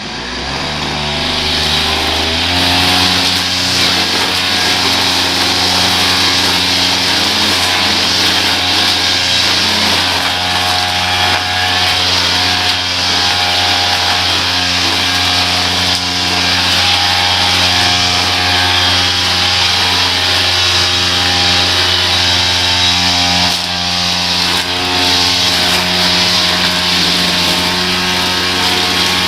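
Small petrol engine of a powered lawn tool revving up over the first couple of seconds, then running at a steady high speed, with a brief dip a little before the end.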